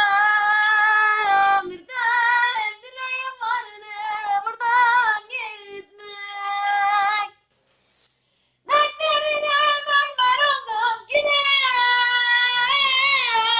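A child singing unaccompanied in a high voice, with long held notes, breaking off for about a second just past the middle before going on.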